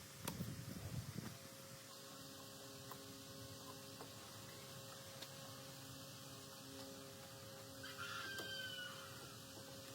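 Faint steady hum with a short clatter in the first second. About eight seconds in, a rooster crows faintly once.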